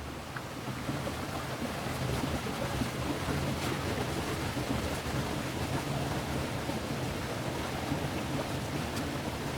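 Steady rushing sound of water, with a low rumble underneath and a few faint ticks.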